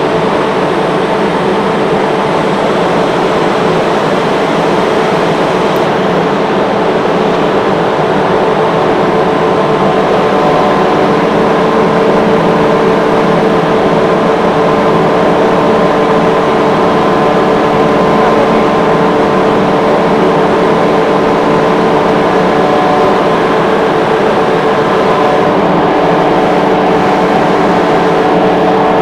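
Rotary screw air compressor running steadily with a loud hum and several steady whining tones; the tones shift slightly about eleven seconds in, as the variable-frequency drive changes motor speed.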